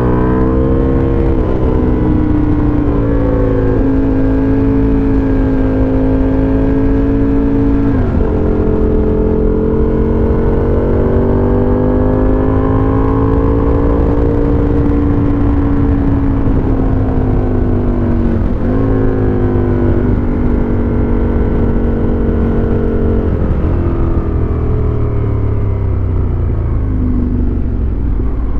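2008 Aprilia RSV Tuono Factory's 1000 cc V-twin running through a dual GPR exhaust while riding, its pitch rising and falling with the throttle. There are sudden breaks in the note about four seconds in, at about eight seconds and at about eighteen seconds, which fit gear changes.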